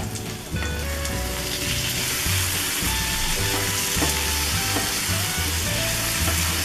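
Capsicum and potato sabzi sizzling in oil in an iron kadhai while a spatula stirs it; the sizzle grows after about a second as the pan is stirred.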